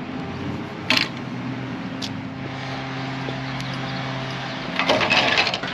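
Wrench and socket work on the bolts of a trailer's manual jack: a sharp metal click about a second in and another at two seconds, then a quick run of clicking and rattling near the end, over a steady low hum.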